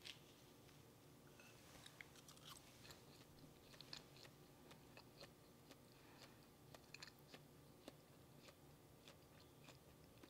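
Faint chewing of soft whole wheat pita bread: scattered quiet mouth clicks over low room tone.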